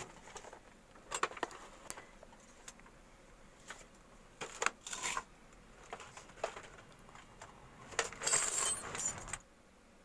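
Small metal parts and hand tools clinking and rattling while screws are being fitted with a screwdriver: scattered sharp clicks, then a longer rattle about eight seconds in.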